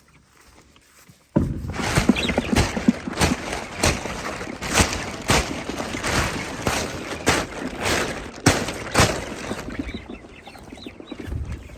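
Chickens clucking in a chicken tractor, over a loud rustling, scraping noise with many sharp knocks that starts suddenly about a second and a half in and eases off near the end.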